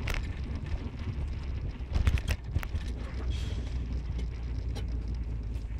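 Car on the move: a steady low road and engine rumble, with scattered clicks and a cluster of sharp knocks about two seconds in.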